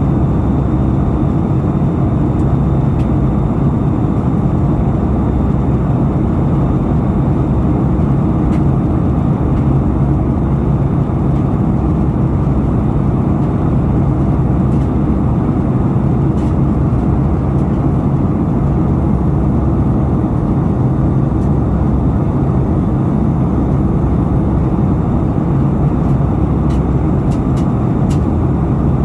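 Airliner cabin noise in flight: the steady, even rush of the jet engines and airflow filling the cabin, with a few faint ticks near the end.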